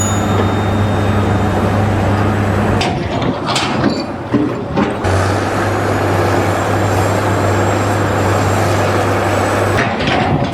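Loud, steady noise of heavy machinery or a heavy vehicle engine running, with a low hum. The sound changes abruptly about three seconds in and again about five seconds in, then runs steadily until shortly before the end.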